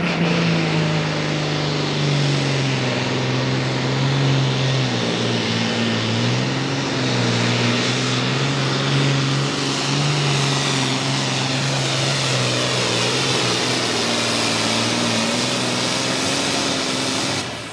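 Super Farm pulling tractor's turbocharged diesel engine running at full throttle under load as it pulls the weight sled: a loud, steady engine note that wavers slightly in pitch, dropping away near the end.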